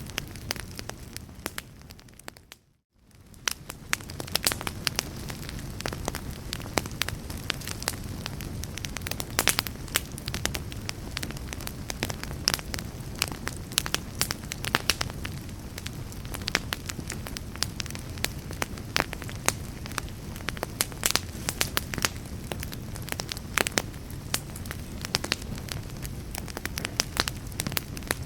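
A fire crackling, with frequent sharp pops and snaps over a steady hiss. About two and a half seconds in, the sound fades briefly to silence and fades back in.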